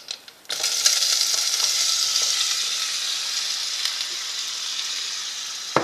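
Diced tomatoes hitting hot olive oil in a stainless steel saucepan and sizzling loudly and steadily, starting about half a second in after a few light clicks.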